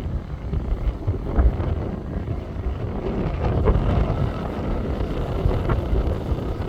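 Competition safari off-road vehicle running over the course: a heavy low engine rumble with wind buffeting the microphone and a few short knocks.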